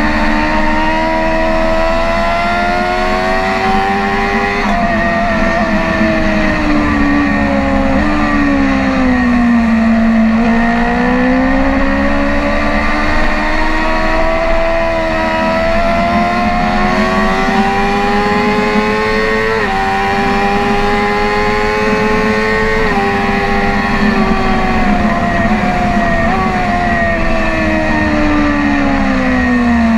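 BMW S1000RR inline-four engine at high revs on track, pitch climbing with brief sudden drops at upshifts. It falls and climbs again about ten seconds in, and falls steadily near the end as the throttle is rolled off, over steady wind rush.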